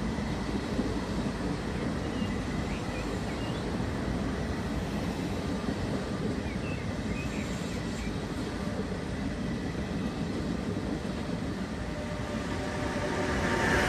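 Passenger coaches rolling past on the rails in a steady rumble of wheels on track. Near the end it grows louder, with a whine coming in as the train's E464 electric locomotive draws near.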